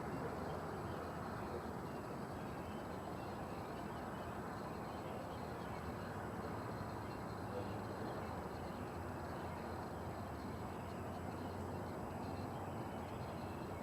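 A steady, low roar with no beat and no changing pitch, holding at an even level. It is the unexplained noise the uploader was asking about.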